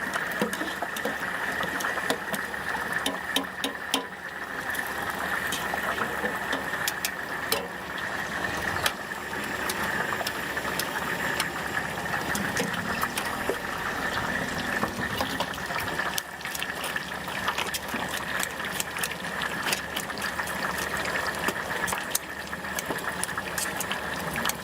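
Stinky tofu deep-frying in hot oil: a steady sizzle with frequent small crackles and pops.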